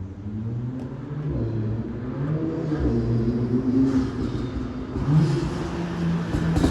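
VW Golf GTI Clubsport's turbocharged four-cylinder exhaust revving, its pitch rising and falling several times and growing louder, with a few light pops of exhaust burble.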